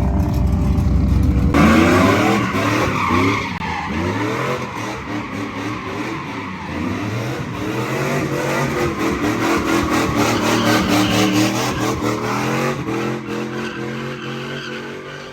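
A vehicle doing donuts: the engine revs up and down again and again while the tyres squeal against the pavement. A deep low rumble drops away about a second and a half in.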